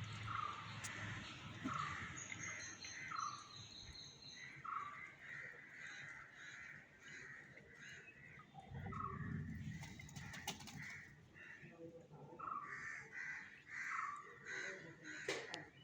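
Birds calling: a series of short harsh calls, roughly one a second, with thin higher chirps in the first few seconds.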